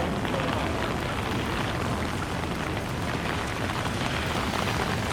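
Heavy rain falling, a steady hiss of drops.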